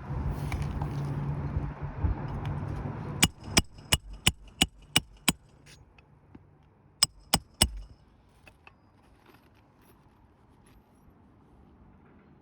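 Hammer blows ringing on metal during work on an asphalt shingle roof: seven quick strikes about three a second, then after a short pause three more. A steady low rumble fills the first three seconds and then drops away.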